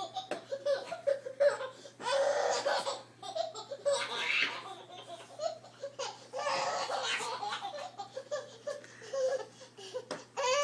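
A baby laughing in repeated bursts of giggles and belly laughs, with light clicks and knocks scattered between them.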